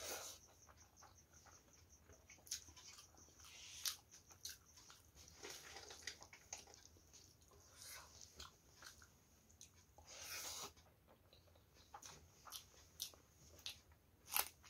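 Faint, close-miked eating sounds of rice and curry eaten by hand: wet chewing and lip smacks in short irregular bursts. A sharper crunch near the end as a green chilli is bitten.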